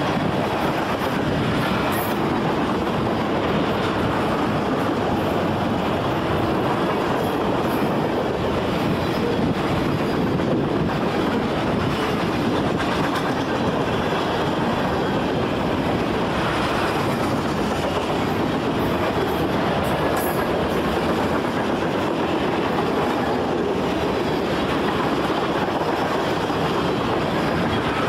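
A train rolling past, the steady noise of its railcars' wheels running on the rails at an even level throughout.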